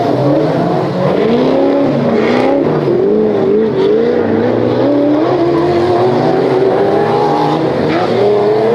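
Off-road 4x4's engine revving up and down repeatedly under load, its pitch wavering and rising.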